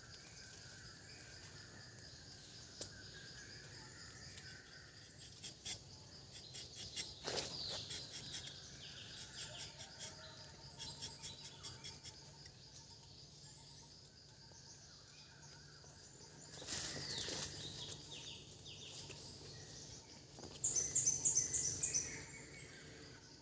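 Birds calling and singing over a steady high insect drone, in a morning chorus. The loudest moment is a run of rapid high bird notes about 21 seconds in.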